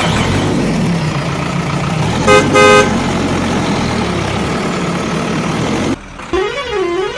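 A vehicle engine running with a steady noisy rumble, broken a little over two seconds in by two short horn honks. Near the end the engine sound cuts off and a warbling, siren-like tone rises and falls about twice a second.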